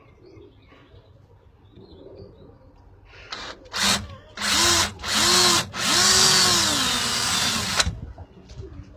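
Power drill boring holes in wood: after about three quiet seconds, a few short trigger pulses, each with the motor whine rising and falling, then a longer run of about two seconds that stops suddenly.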